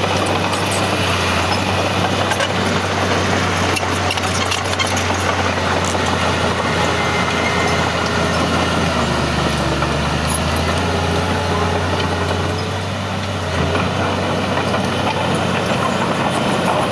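Heavy diesel engine of earthmoving machinery running steadily. Its pitch drops for a few seconds near the middle, and the sound dips briefly before picking back up.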